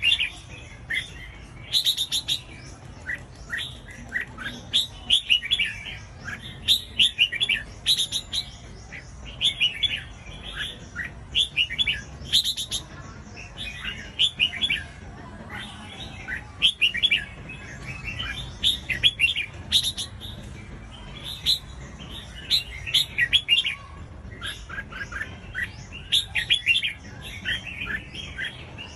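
Red-whiskered bulbul singing: short, bright phrases of quick notes, repeated every second or two.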